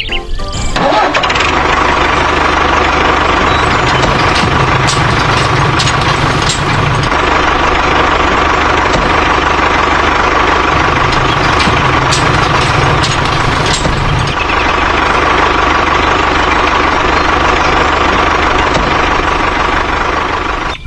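Engine running loudly and steadily, starting about a second in with a steady whining tone over a low throbbing, and cutting off at the end.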